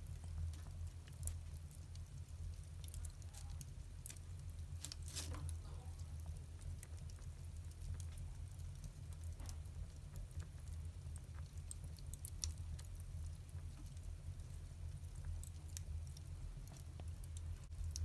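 Wood fire crackling with scattered sharp pops, the loudest about five seconds in, over a steady low rumble.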